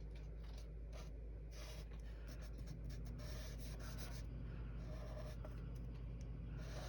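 Chisel nib of an Ohuhu alcohol marker rubbing across paper in soft, repeated colouring strokes, over a steady low hum.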